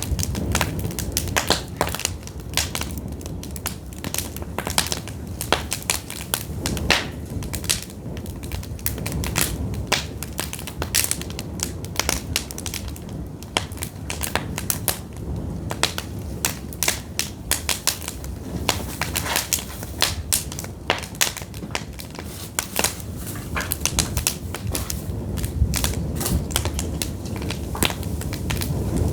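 Pine firewood burning, crackling with frequent sharp, irregular pops and snaps over a low steady rumble of the flames.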